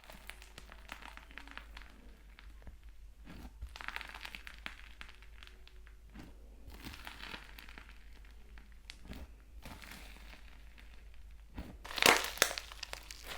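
Slime being pressed and worked by hand, giving a run of crackling, crunching pops, with the loudest burst of crackles about twelve seconds in.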